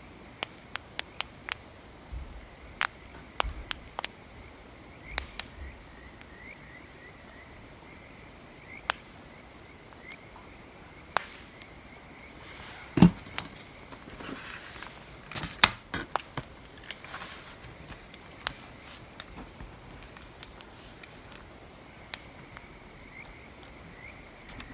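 Wood fire crackling, with irregular sharp pops scattered throughout and a louder knock about halfway through, over a faint, steady high chirping in the background.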